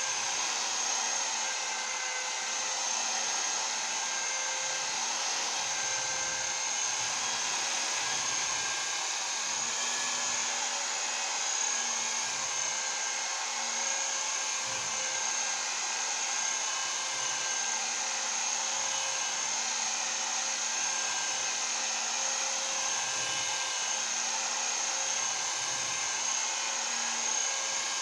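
Variable-speed rotary buffer running steadily at a higher speed setting (about 5 on its dial), a steady motor whine as its pad works buffing compound over sanded clear coat.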